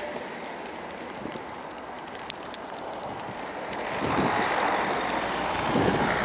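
Heavy MAZ dump truck going by while clearing snow, a rushing noise that grows louder about four seconds in, with wind on the microphone.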